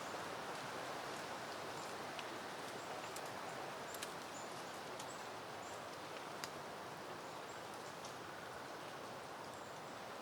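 Soft, steady wind rustling through peony leaves and blooms, with a few small ticks.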